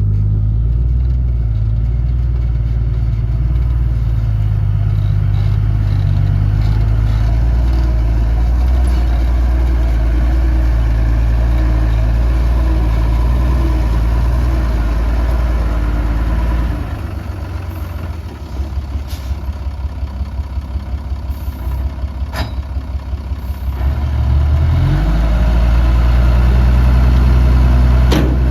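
Heavy diesel earthmoving machine engine running under steady load. About two-thirds of the way through it drops to a lower, pulsing idle, then revs back up near the end. A few sharp knocks or clicks are heard over the engine.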